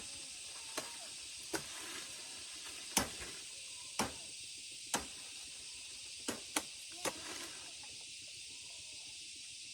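Chopping palm leaves with a blade: about eight sharp, separate strikes, roughly one a second, with two in quick succession past the middle. A steady high hiss runs underneath.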